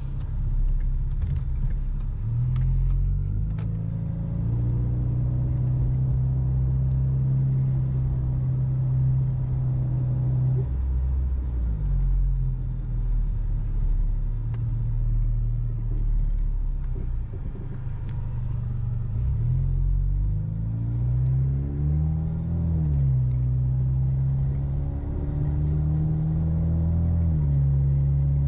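Ford Mustang EcoBoost's turbocharged 2.3-litre four-cylinder with a full exhaust, driven: the engine note climbs under acceleration and drops back at gear changes, several times over.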